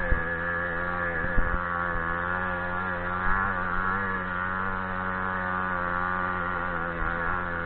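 Small motorcycle engine running at fairly steady revs while riding over rough ground, with a few short knocks from bumps, the sharpest about a second and a half in.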